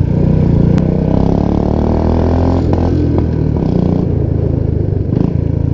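Royal Enfield Bullet 350 Classic's single-cylinder engine running loud through an aftermarket 'Punjabi dhol' exhaust while under way, its note shifting a little about halfway through.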